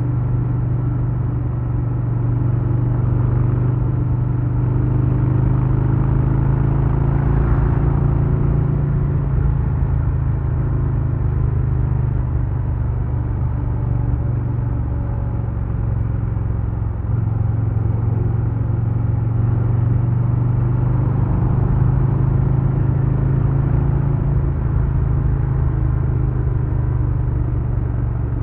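2022 Harley-Davidson Low Rider S's Milwaukee-Eight 117 V-twin running at a steady cruising pace with a low rumble, its note dipping briefly about two-thirds of the way through.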